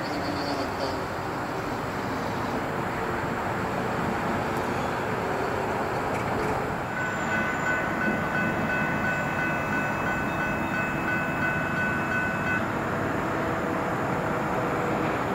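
Railroad grade crossing with a steady, fairly loud rumble of train noise. From about seven seconds in, the crossing's warning bell rings for about five seconds as the gates lower, then stops.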